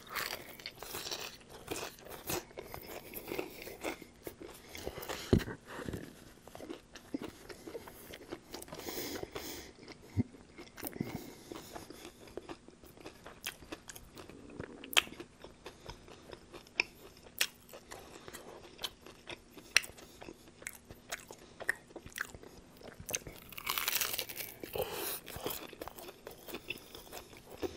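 Close-up chewing and crunching of a naked chicken chalupa, whose shell is a breaded, fried chicken breast, with many sharp crackling clicks scattered through. A denser patch of crunching lasts about two seconds near the end.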